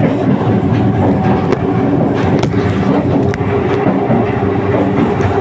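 Passenger train running on the rails: a steady loud rumble with a few sharp clicks from the wheels and track, about one every second.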